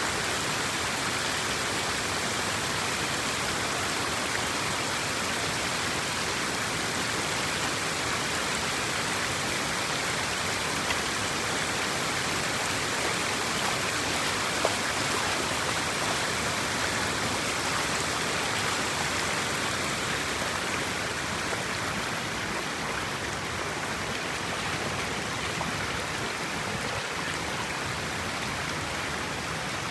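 Steady rushing of water pouring through a dam drain that has been unclogged, with a couple of faint clicks.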